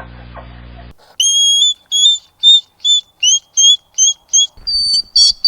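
A bird calling a run of short, high whistled notes, about three a second, starting about a second in.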